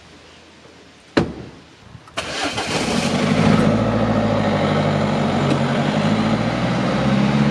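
Peugeot 207 hatchback's engine being started: a sharp knock about a second in, then the engine catches about two seconds in and runs steadily.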